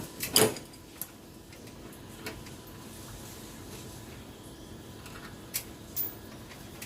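A few sharp clicks and taps over a faint steady background hum. The loudest comes about half a second in, with weaker single clicks scattered after it.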